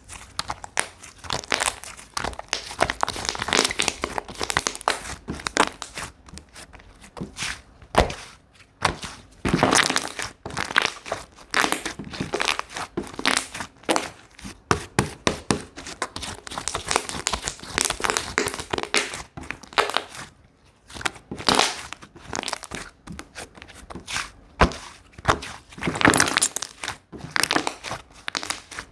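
Hands squishing, stretching and folding slime, a continuous irregular crackling and popping with louder clusters of clicks.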